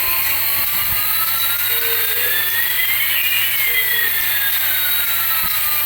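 Steady, high-pitched whirring hiss from a battery-powered toy, with one tone slowly rising while another slowly falls, the two crossing about halfway through.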